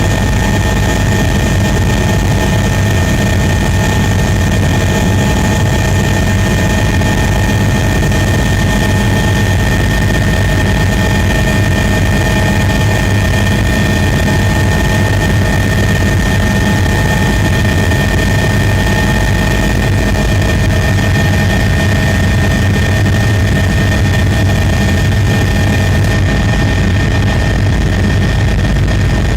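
Steady running of an aircraft's motors and propellers: a constant high whine over a low hum, unchanging throughout.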